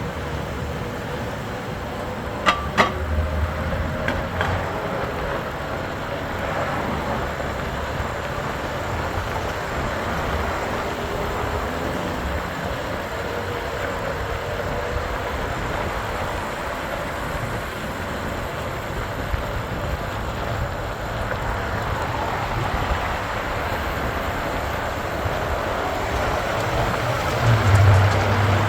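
Steady road and wind noise from riding an e-bike, with a faint whine early on and a couple of sharp clicks about two and a half seconds in; a low hum swells near the end.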